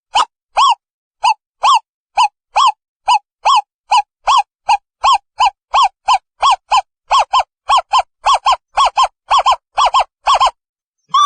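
Owl calling: a long series of short hoots, each rising and falling in pitch, about two to three a second and speeding up toward the end, stopping shortly before the end.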